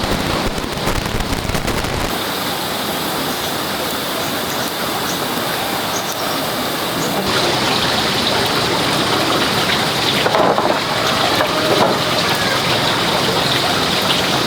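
Steady rushing hiss of water, with a change in its sound about two seconds in and again about seven seconds in.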